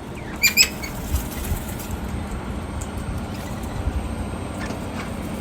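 Two short, sharp bird calls about half a second in, then a few fainter calls, over a steady low rumble.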